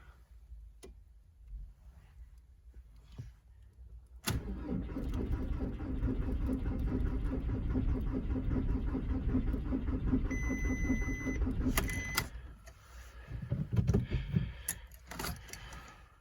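A 1999 VW Golf Mk4's 1.9 TDI diesel cranks over on the starter for about eight seconds with a steady rhythmic churn, but it does not fire: the car will not start. A high warning beep from the dash sounds briefly near the end of the cranking, and a few knocks follow.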